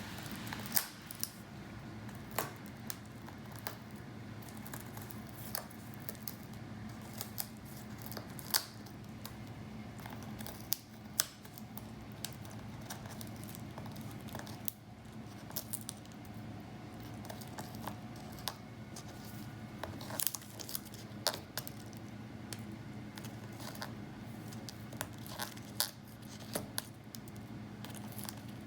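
African grey parrot biting and chewing raw pumpkin with its beak: irregular sharp clicks and crunches, with small pieces dropping, over a steady low hum.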